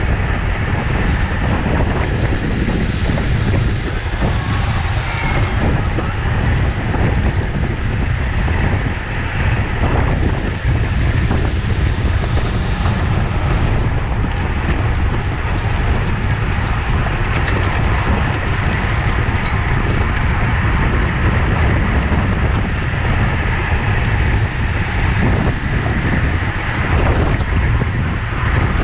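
Steady wind noise buffeting the microphone of a camera on a racing bicycle moving at speed.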